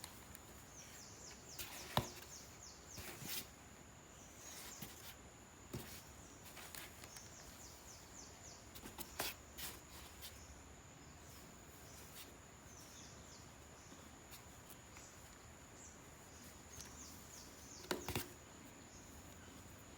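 Faint outdoor ambience: a steady high insect-like drone with many short, high chirps falling in pitch, broken by a few sharp clicks or knocks, about two seconds in, around nine seconds and near the end.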